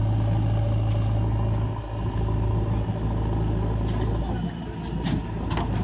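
Heavy-machinery diesel engine running steadily at a low hum as mud is loaded, with a few sharp knocks and clanks in the last two seconds.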